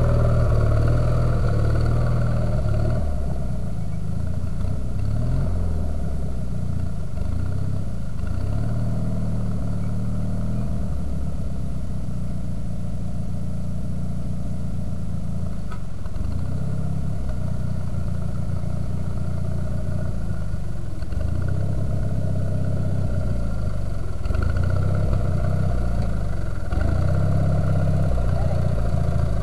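Sears garden tractor engine running steadily under plowing load, its pitch sagging and recovering several times as the load changes.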